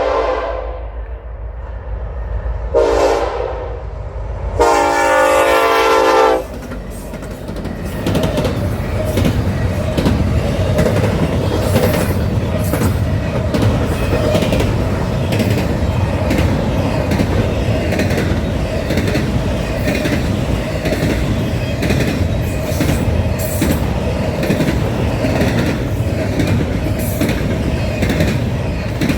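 Train horn sounding three blasts, the last one longest, as an approaching train nears, then the train rolling past with a steady rumble and its wheels clicking over the rail joints.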